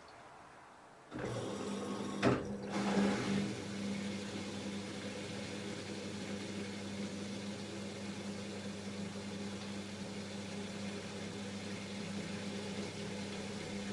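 LG F10A8HDS5 front-loading washing machine starting up again after a pause: about a second in it comes on suddenly with a knock, then runs with a steady motor hum and a rushing noise.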